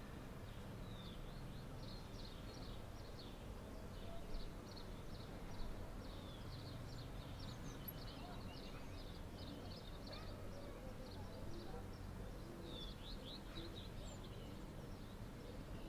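Many small birds chirping and twittering in quick, overlapping calls, over a steady low background rumble.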